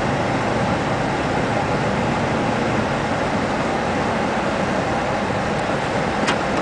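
Steady road and engine noise of a car being driven through snow, with one brief tick near the end.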